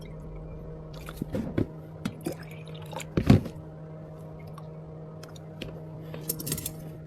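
Drink-making sounds at a bubble tea counter: scattered knocks, clicks and wet handling of cups and utensils over a steady hum of equipment, with one louder knock about three seconds in.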